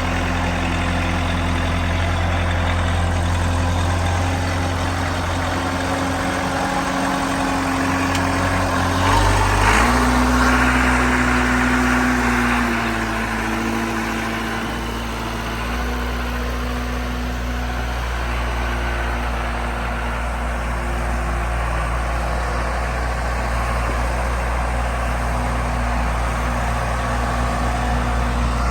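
Case 580 CK loader tractor's engine running steadily. About nine seconds in its note changes, with a brief louder moment, and it settles into a slightly different steady note that shifts a little again a few seconds later.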